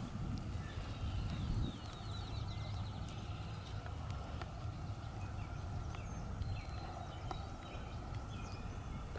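Birds calling outdoors, with short high chirps and a rapid trill, over a steady low rumble.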